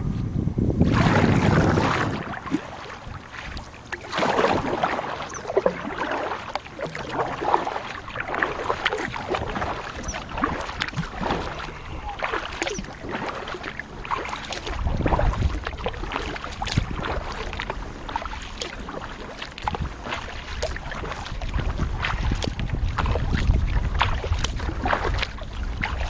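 Kayak paddle strokes dipping and splashing in the water, with irregular drips and splashes. Wind rumbles on the microphone at times, mostly in the second half.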